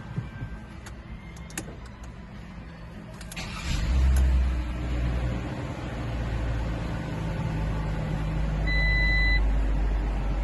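Fiat Strada pickup being started: a few light clicks, then the starter cranks briefly about three seconds in and the engine catches with a short flare before settling into a steady idle. A short electronic beep sounds near the end.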